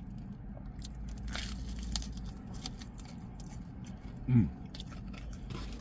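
Close-up crunching and chewing of fried chicken wings, with scattered crisp crunches and small mouth clicks. A brief hummed vocal sound comes a little past four seconds in, over a steady low hum.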